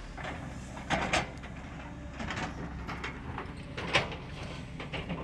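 Diesel engine of a Cat 120K motor grader running steadily, with several sharp knocks and clanks: two close together about a second in and a louder one about four seconds in.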